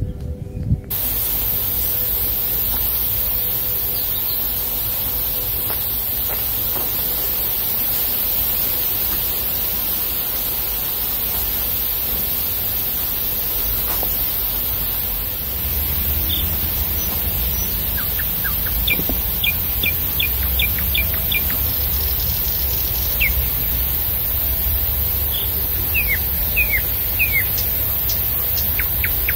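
Small birds chirping in short series of quick calls, mostly in the second half, over a steady high hiss of outdoor ambience.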